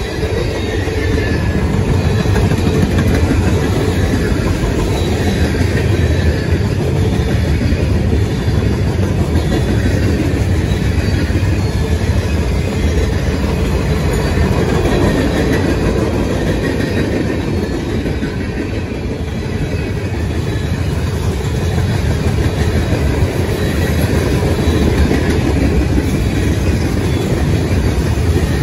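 Train passing at trackside: the steady rolling noise and clatter of railcar wheels on the rails, continuous and loud.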